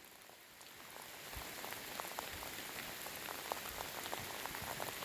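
Rain falling steadily, with many small drops ticking and pattering; it grows a little louder about a second in.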